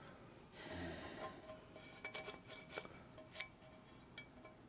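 Faint scraping and a few light, sharp clicks as flaking chrome plating is picked and pulled at on a motorcycle primary cover.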